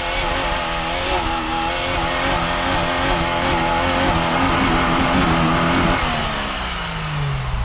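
Off-road 4x4's engine revving hard under load, its pitch wavering as it climbs a deep-snow hill; near the end the revs fall away.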